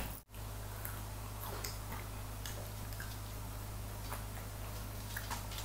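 Quiet eating sounds: scattered soft clicks of chewing and nibbling on a crispy baked chicken wing, over a steady low hum. The sound drops out for a moment just after the start.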